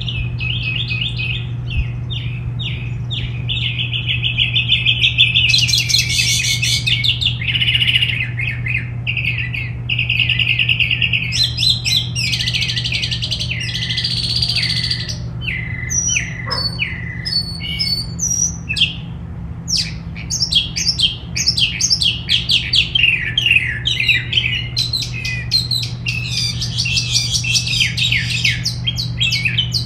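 Several songbirds chirping and singing at once, a dense run of overlapping short chirps and trills, over a steady low hum.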